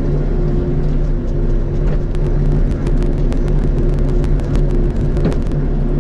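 Bobcat E42 mini excavator's diesel engine running steadily, with a quick run of sharp clicks and cracks from about two seconds in to near the end.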